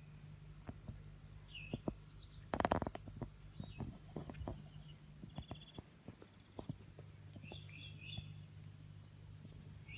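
Small birds chirping in short, high calls, one a quick trill, against scattered clicks and a louder rustling burst about two and a half seconds in, over a low steady hum.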